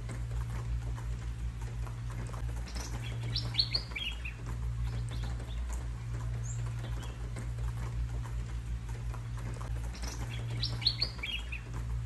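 Songbirds chirping in short bursts of quick, high notes, one burst about three seconds in and a matching one about eight seconds later, with a few single chirps between. A steady low rumble runs underneath and is the loudest sound.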